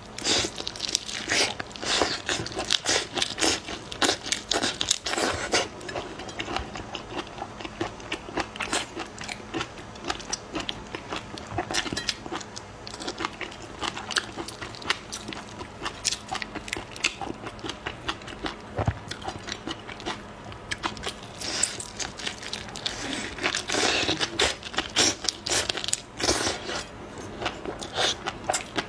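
Close-miked eating: a person biting and chewing, with many quick, irregular crunching clicks.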